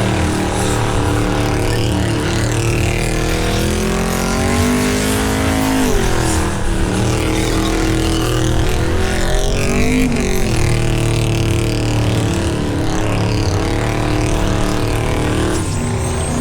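V8 engine held at high revs in a burnout, its pitch slowly climbing and then falling sharply off the throttle about six seconds in and again about ten seconds in, over a steady hiss.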